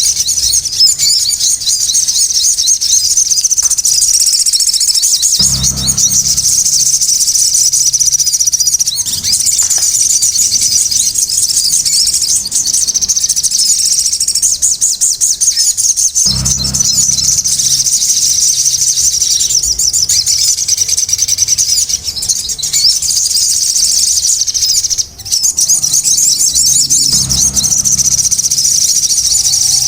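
Sogon birds chattering noisily: a dense, continuous stream of rapid, high-pitched notes without a break.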